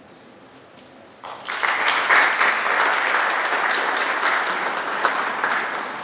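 Audience applauding: quiet at first, then clapping breaks out about a second in and carries on steadily, starting to die away near the end.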